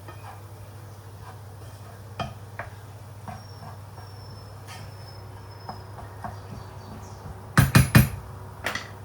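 Kitchenware being handled: scattered light clicks and knocks, then a quick run of three loud knocks about three-quarters of the way through and one more shortly after, over a steady low hum.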